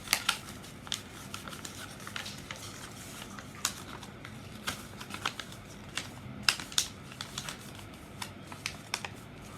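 A sheet of paper being folded and creased by hand: irregular crisp crackles and taps, a few sharper ones scattered through.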